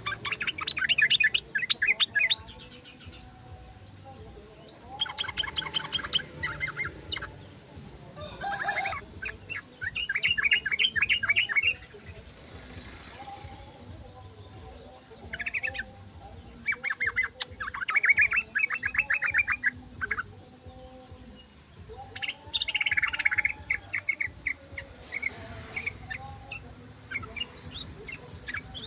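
Yellow-vented bulbul (trucukan) singing: phrases of rapid chattering notes, each lasting one to three seconds, repeated every few seconds.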